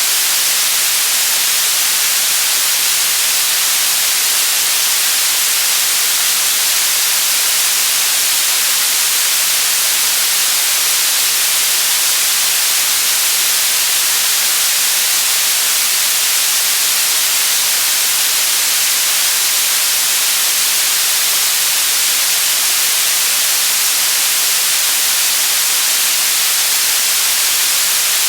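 White noise: a steady, even hiss, strongest in the treble, with no change in level.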